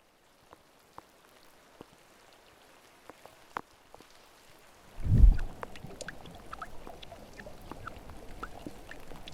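Water: a few scattered drips, then about five seconds in a sudden splash, followed by water lapping and bubbling.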